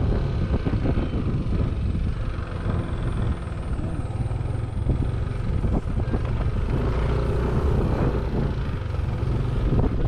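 Yamaha NMAX 155 scooter running at road speed, its engine under a steady low rumble of wind buffeting the microphone.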